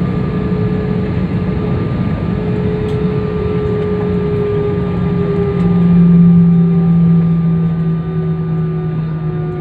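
Airliner engines heard from inside the passenger cabin: a loud, steady drone with a low hum that swells a little louder about halfway through.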